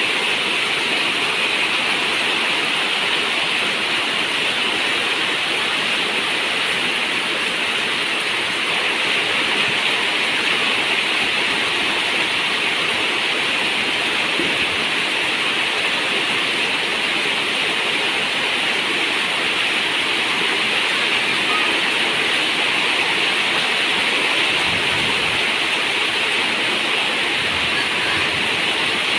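Heavy rain falling steadily: an even, unbroken hiss of water with no separate drops standing out.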